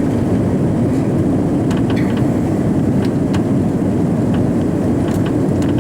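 Steady, loud cabin noise inside an Airbus A340-300 airliner: the even rumble of its four CFM56 engines and the airflow around the fuselage, with a few faint light clicks.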